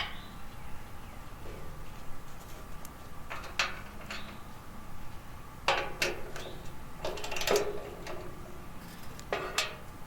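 Tools and metal parts clinking and knocking every second or two, some with a short ring, as work goes on installing the garden tractor's gear shifter.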